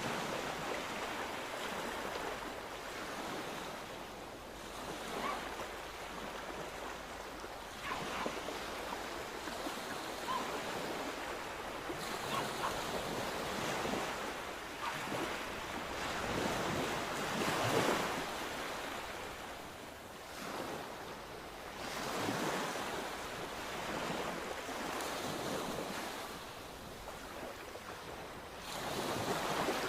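Sea waves breaking and washing in, swelling and ebbing every few seconds, the loudest surge a little past the middle.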